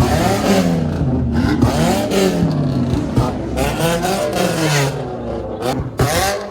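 Car engine revved hard again and again, its pitch climbing and falling with each blip, with a few sharp cracks among the revs.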